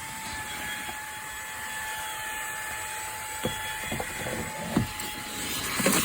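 Fanttik Slim V8 Apex cordless handheld vacuum running steadily, with a thin whine over the hiss of its airflow and a few light knocks in the second half.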